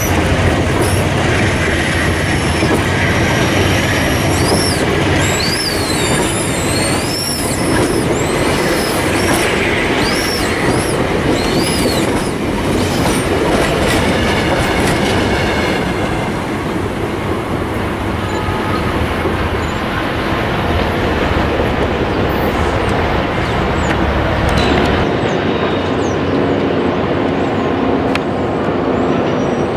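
Train wheels running on rails with a steady rumble and clatter. High squealing tones that slide up and down come and go through the first dozen seconds, then die away while the rumble carries on.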